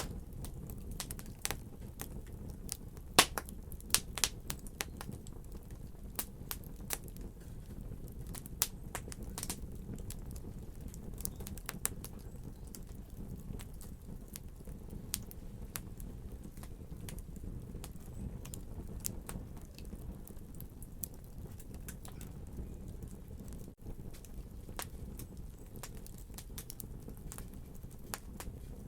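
Wood fire crackling in a fireplace: irregular sharp pops and snaps, thickest in the first ten seconds, over a low steady rumble of the burning fire.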